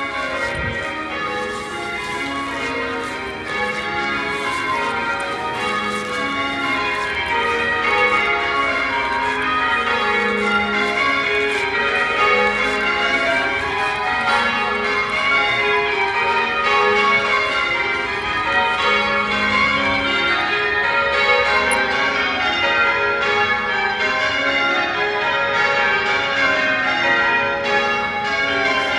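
Church bells of Chelsea Old Church pealing: a set of bells struck one after another in a continuous rolling sequence, each stroke ringing on under the next.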